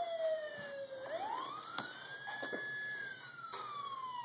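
Tonka Mighty Fleet toy police car's electronic siren wailing. The tone falls, sweeps up over about a second, holds high for about a second, then slides slowly back down.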